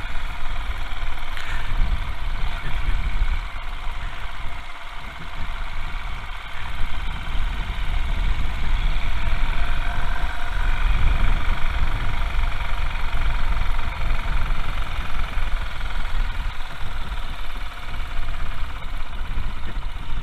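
Royal Enfield Himalayan's single-cylinder engine running under way, quieter for a few seconds about four seconds in, then louder again from about seven seconds.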